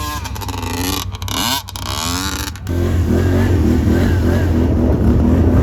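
Dirt bike engine revving, its pitch rising and falling, with brief dropouts in the first half. About halfway in it turns louder over a steady low rumble.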